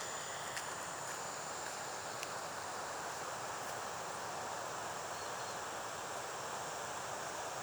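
Steady outdoor forest ambience: an even rushing hiss with a continuous high-pitched insect drone over it.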